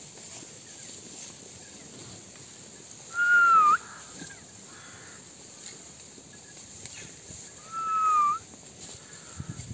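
A bird calling twice, about four and a half seconds apart: each call is a single clear, whistle-like note of about half a second that dips slightly and then rises sharply in pitch at the end, over a faint steady outdoor background.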